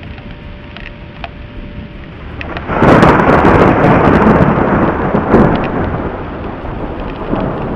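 Thunder: a loud peal breaks suddenly about two and a half seconds in and rumbles on, slowly easing, with a second smaller swell near the end. Steady rain hiss with scattered drop ticks lies under it.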